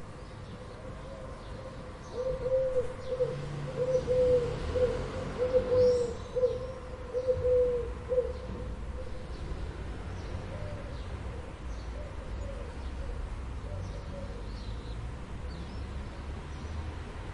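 A run of about eight short animal calls, each a brief rise-and-fall note a little over half a second apart, over a steady low rumble. The calls stop about a third of the way in, and the rumble goes on.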